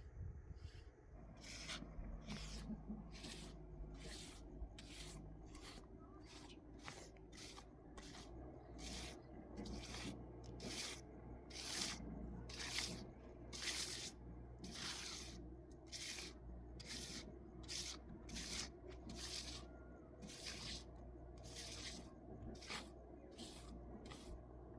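Rhythmic scraping strokes, about one and a half a second, each a short rasp repeated steadily.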